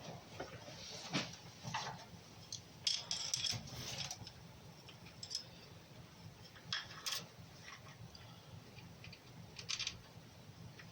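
Scattered metallic clinks and scrapes of hand tools and engine parts being handled, with a busier bout of clatter about three seconds in.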